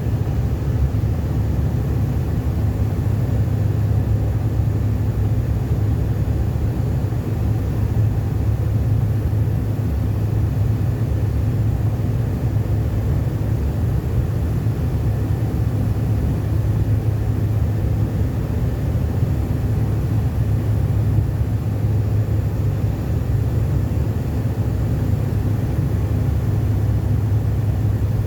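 Steady low rumble of an airliner in flight, heard inside the cabin: engine and airflow noise holding an even level.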